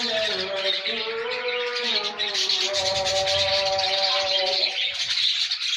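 A colony of budgerigars chattering and chirping together in a dense, continuous warble. Underneath is a steady pitched tone that stops near the end.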